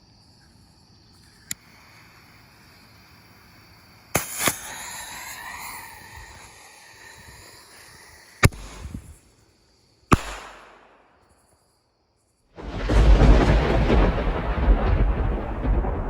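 A fireworks shot: a loud bang about four seconds in with a wavering, hissing trail, sharp cracks at about eight and a half and ten seconds, then a long, loud, rumbling rush from about twelve and a half seconds on. Crickets chirp steadily under the first part.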